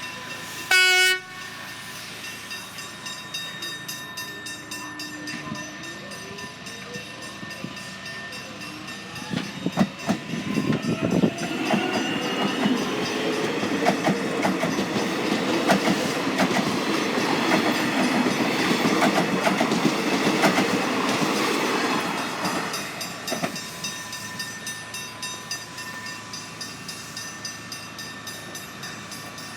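Melbourne suburban electric train sounding one short horn blast about a second in, then its motor whine rising as it approaches. It passes over the crossing from about ten seconds in, with wheel clatter for about twelve seconds before fading, while the level crossing bells ring steadily.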